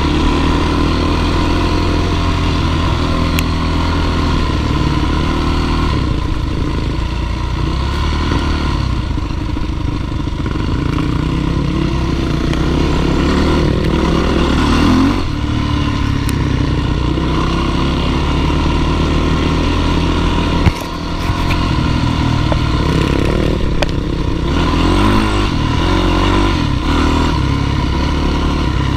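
Dirt bike engine running steadily under load, with a brief dip in loudness about two-thirds of the way through.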